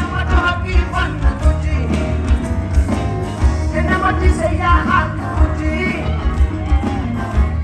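Loud band music with a singer over a heavy, pulsing bass and drum beat, as played through a concert sound system.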